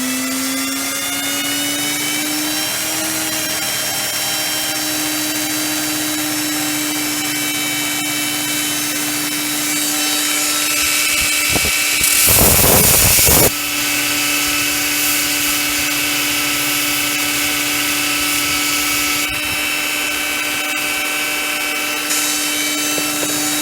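Heretic Hyperlite 2x72 belt grinder coming up to three-quarter speed, its whine rising for the first few seconds and then holding steady. About halfway through, a workpiece is pressed to the belt for a second and a half of loud grinding, with lighter grinding later on.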